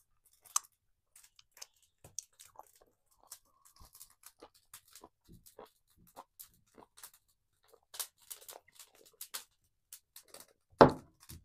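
Close-up eating sounds: a man chewing and crunching chicken cartilage, a scatter of soft wet clicks and crunches, with one louder thump about a second before the end.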